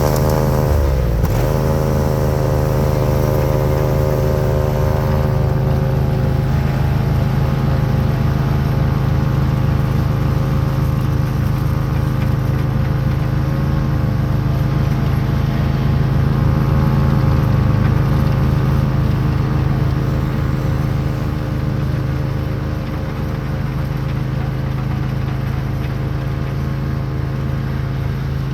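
Craftsman YT4000 lawn tractor's engine running steadily at high speed while it drives a front-mounted Bercomac Northeast 44-inch snowblower. The engine pitch briefly sags and recovers about a second in, as it takes up load.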